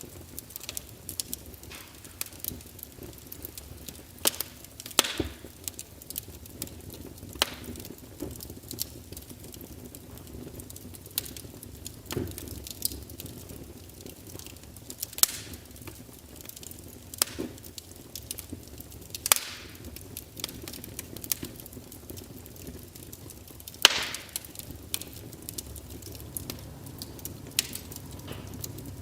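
Wood fire crackling: irregular sharp pops and snaps, a few each second and some louder than the rest, over a soft low rumble.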